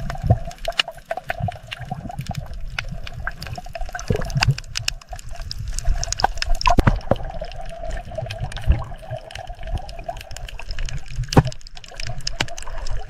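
Water splashing and trickling, with many short sharp clicks over a low rumble.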